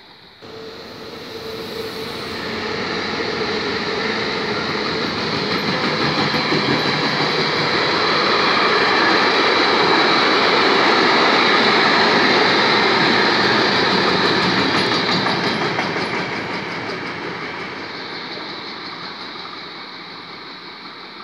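Freight train of wagons carrying swap-body containers passing close by at speed. Its running noise builds to a peak about halfway through and then fades away.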